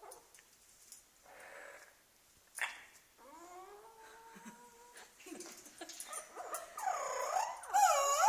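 Amazon parrots calling. A sharp click comes about two and a half seconds in, then a drawn-out whistled call, and the loudest squawking cries near the end.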